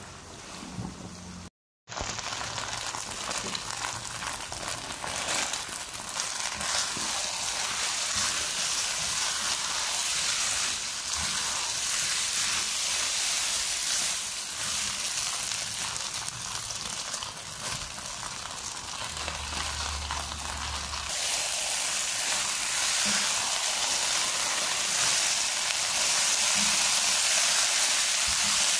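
Noodles sizzling in a hot wok as they are stir-fried and turned with a spatula. A brief drop-out to silence comes about two seconds in, and the sizzle grows louder in the last third.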